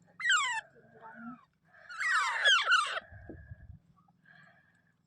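Rose-ringed parakeet (Indian ringneck) screeching: one shrill call with falling pitch just after the start, then a louder run of several sharply falling calls about two seconds in.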